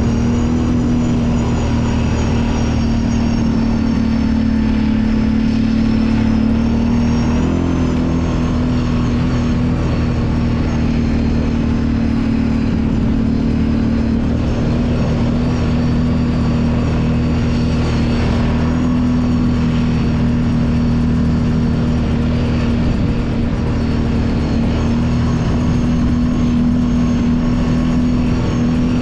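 Kawasaki Brute Force 750 ATV's V-twin engine running at a steady pace while the quad is ridden along a trail, with a brief dip and wobble in pitch about seven seconds in.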